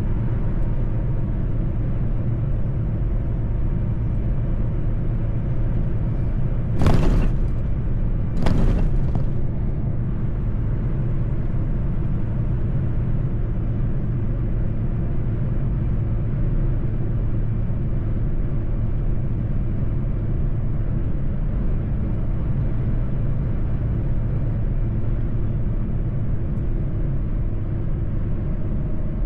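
Mercedes-Benz truck driving, its engine and road noise a steady low drone. Two short, sharp noises come about a quarter of the way in, a second and a half apart.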